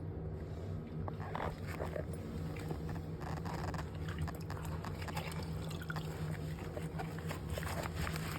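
A steady low hum with faint, scattered small clicks and rustles over it.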